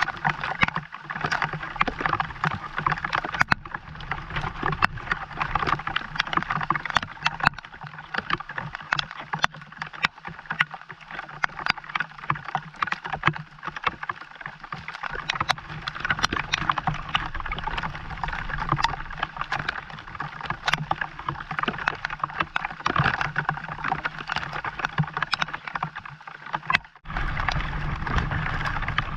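Rain falling, a dense patter of many small drops, with a low steady hum underneath; it drops out briefly near the end.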